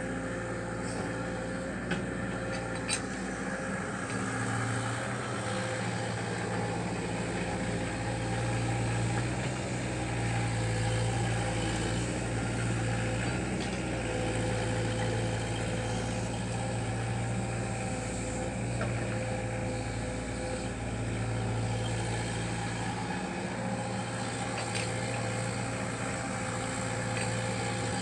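Caterpillar 305D mini excavator's diesel engine running at a steady speed, with two small clicks a couple of seconds in.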